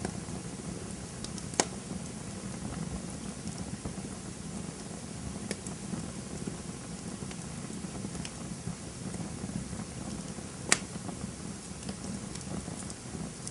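Wood campfire burning with a steady low crackle and scattered small ticks, and two sharp loud pops, one near the start and one near the end.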